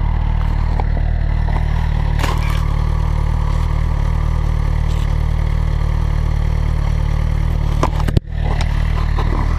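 Motorcycle engine idling steadily with an even low pulsing beat. A few knocks and scrapes from the camera, the sharpest about eight seconds in.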